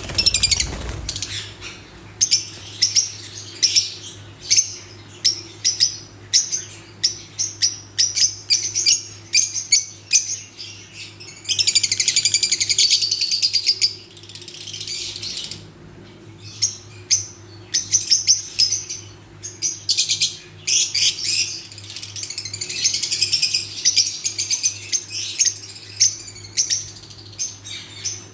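Lovebirds chirping: many short, high chirps, thickening into dense continuous chatter about a third of the way in and again past two thirds. A steady low hum runs underneath.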